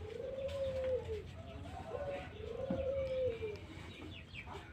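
Domestic pigeons cooing: two drawn-out coos that rise and fall, each about a second long, with shorter coo notes between them.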